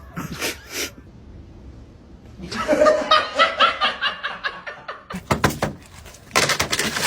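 A person laughing in a run of quick, even bursts, followed by a few sharp noisy knocks and rustles near the end.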